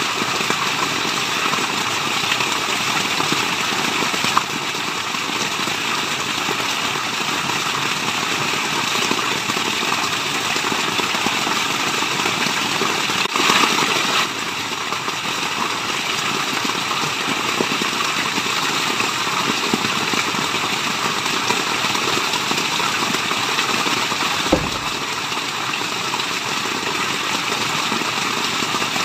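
Steady rain and running water making an even, dense rushing hiss, briefly louder about halfway through. A single low thump near the end.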